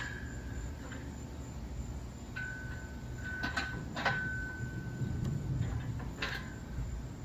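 Loaded barbell plates clinking against each other during squat reps: a few sharp metal knocks about half a second to two seconds apart, each leaving a ringing tone that hangs for a second or two, over a faint steady high whine.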